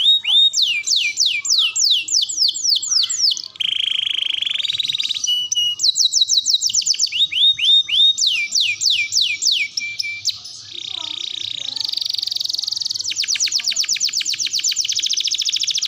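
Domestic canary singing a long, continuous song of repeated phrases. It moves from runs of quick down-sweeping whistled notes to buzzy rolls and, near the end, a very fast trill.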